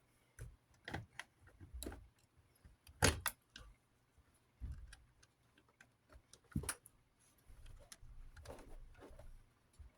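Scattered clicks, taps and knocks of hands and needle-nose pliers working at the box fan's stuck motor wires and housing, with a louder knock about three seconds in.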